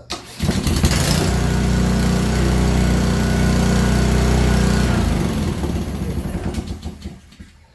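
Honda 190 cc single-cylinder small engine, run without its pressure washer pump, comes in suddenly about half a second in and runs steadily for about four seconds. It is then shut off and winds down to a stop.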